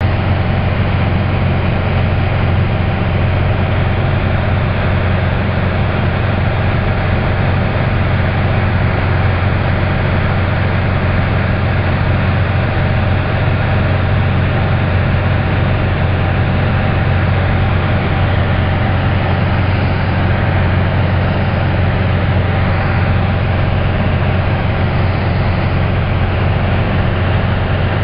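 Aircraft engine and propeller drone heard inside the cockpit in steady cruise: a loud, even, low hum with steady tones above it.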